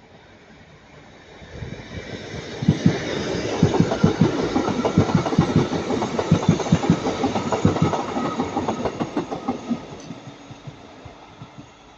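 Northern Class 150 Sprinter diesel multiple unit passing, its wheels clicking rapidly over the rail joints. The sound builds about a second and a half in, is loudest through the middle and fades away near the end.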